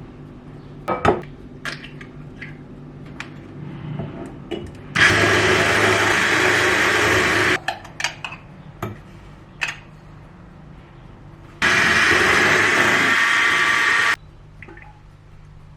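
A small electric kitchen appliance with a blender-type motor runs in two bursts of about two and a half seconds each, with a pause between. Light clinks and knocks of kitchen utensils come before, between and after the bursts.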